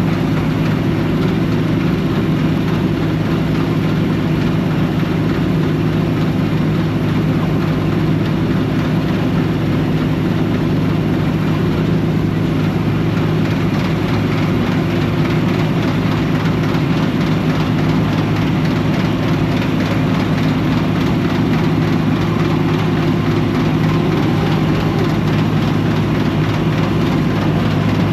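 John Deere 4400 combine running steadily while harvesting wheat: an even engine drone with the machine's working noise, unchanged throughout.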